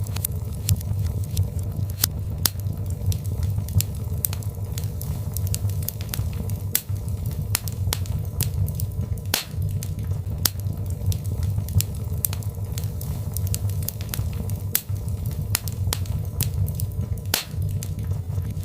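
Birch-log fire crackling in a fireplace, with irregular sharp pops and snaps over a steady low rumble.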